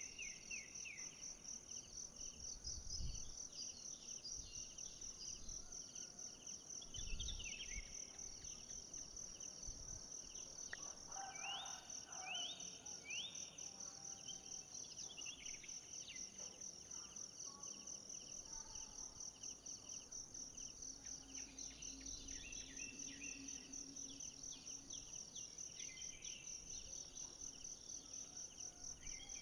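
A forest insect chorus: a steady, high, rapidly pulsing trill with other insects chirping in short falling strokes beneath it. Two soft low thumps come about three and seven seconds in.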